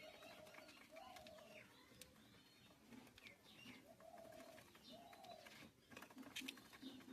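Pet bird calling softly: four short, even notes in two pairs, with fainter higher chirps and a few faint clicks near the end.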